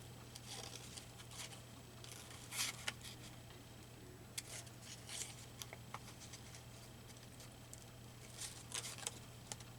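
Scissors snipping through magazine paper, cutting out a picture: faint, irregular snips scattered through, over a steady low hum.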